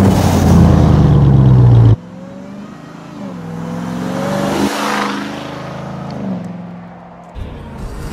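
A car engine revving hard and loud for about two seconds, then cut off abruptly to a quieter engine note that climbs and falls in pitch as it accelerates and lets off.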